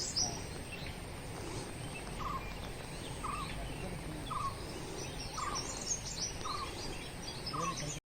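Several birds chirping, with one bird repeating a short, lower note about once a second from about two seconds in, over a faint steady high-pitched tone. The sound cuts off suddenly just before the end.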